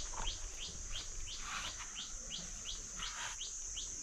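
A bird calling in a fast, even series of short falling chirps, about three or four a second, over a steady high-pitched insect drone.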